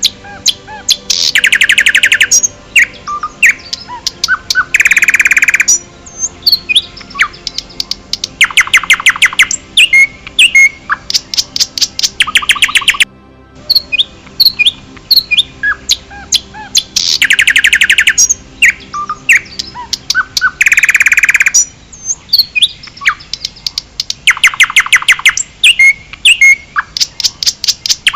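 Songbirds singing: loud, fast trills about a second long, with many short chirps and whistles between them. The same stretch of song repeats after a brief dropout about halfway through, as a loop would.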